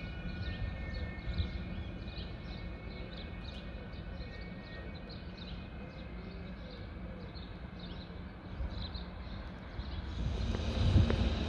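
Steady low rumble of railway traffic at a station. Near the end a train approaches and grows quickly louder.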